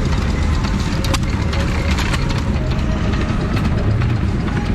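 Old stationary engine running steadily with a low, even rumble.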